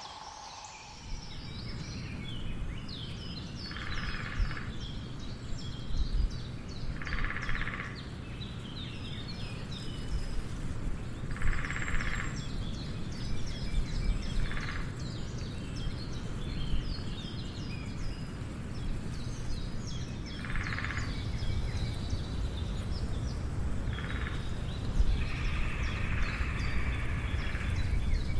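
A woodpecker drumming in short rolls, about seven of them spaced irregularly, the last one longer, near the end. Other birds chirp throughout, over a steady low rumble.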